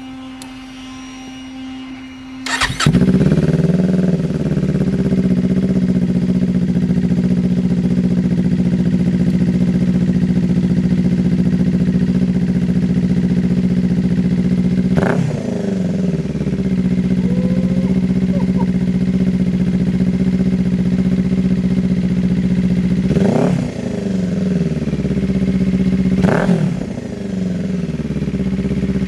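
2025 Kawasaki Ninja 500's parallel-twin engine, fitted with an aftermarket slip-on muffler, starting after a steady hum about two and a half seconds in and settling into a steady idle. The throttle is blipped three times, with quick revs rising and falling, and a fourth rev comes right at the end.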